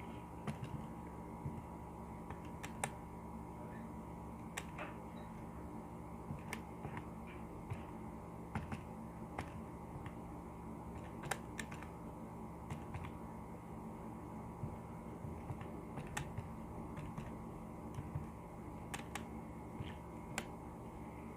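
Keys being pressed to enter a calculation: irregular light clicks, scattered a second or so apart, over a steady low electrical hum.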